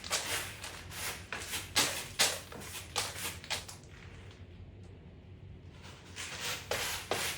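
Cat scratching and kicking litter in a litter box to cover its waste: a string of quick gritty scraping strokes, pausing for a couple of seconds midway before starting again.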